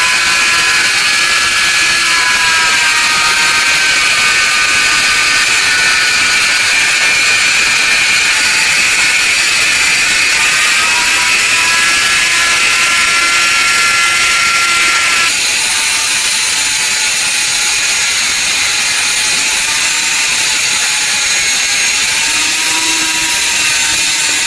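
A power tool running steadily: a loud hiss with a high whine whose pitch wavers slightly and shifts about 15 seconds in.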